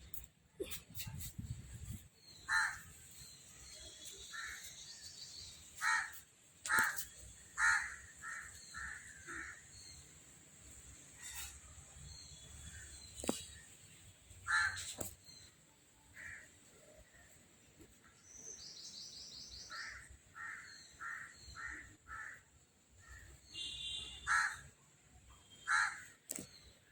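A bird calling repeatedly: short calls coming in runs of several, with a few sharp clicks in between.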